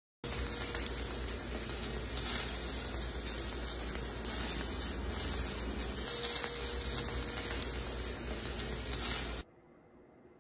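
Electric arc welding: the arc gives a steady crackling sizzle for about nine seconds, starting and stopping abruptly as the arc is struck and broken.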